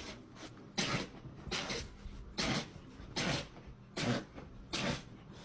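A dog sneezing repeatedly in quick succession: about six short, sharp sneezes, roughly one every second.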